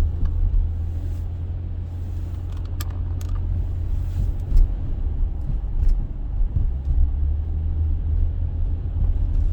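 Car driving, heard from inside the cabin: a steady low rumble of engine and road noise, with a few small clicks and knocks.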